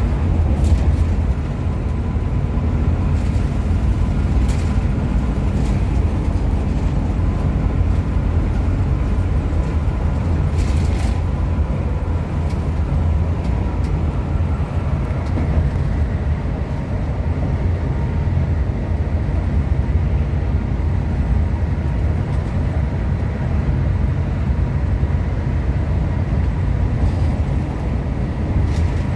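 A Hino RM 280–powered coach travelling on the road: a steady low rumble of engine and road noise, with a few brief rattles.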